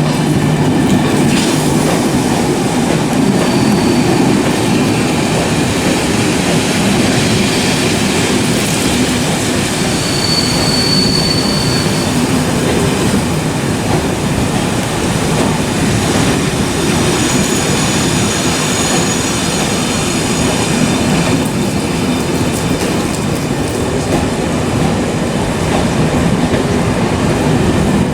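A train running past close by: a steady rumble of wheels on the rails, with brief high-pitched wheel squeals a few times along the way.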